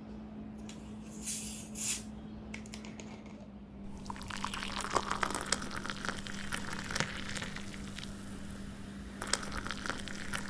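Wet squishing and crackling of rice and curry gravy being mixed by hand, sparse at first and busier from about four seconds in, over a steady faint electrical hum.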